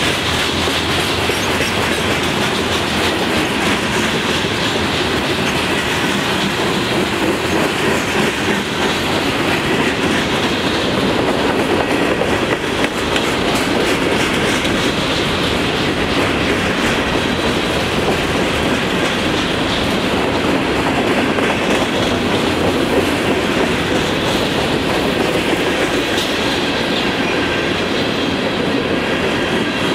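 Freight train of covered hopper cars passing close by: a steady, loud rolling rumble with rapid clicking of the steel wheels over the rail joints.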